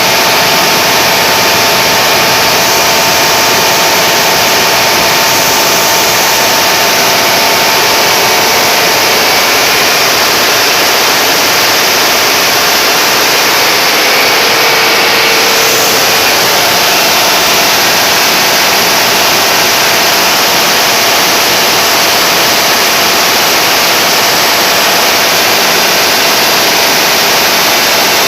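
Generator engine running loud and steady under a load test, a constant roar with a faint steady hum.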